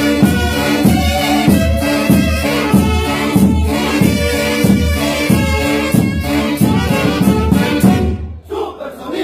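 Brass band music with a steady beat. About eight seconds in, the music drops away briefly under a falling slide.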